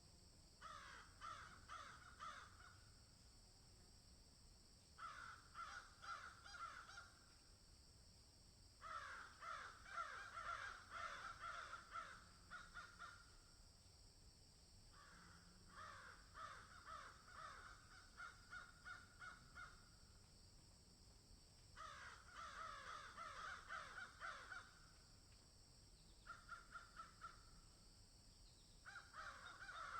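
Bird calls in repeated bursts of rapid, harsh notes, each burst lasting a few seconds and coming again every few seconds, over a steady high hiss.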